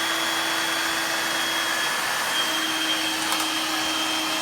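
Dirt Devil stick vacuum running steadily and really quiet: an even hiss with a low hum and a thin high whine.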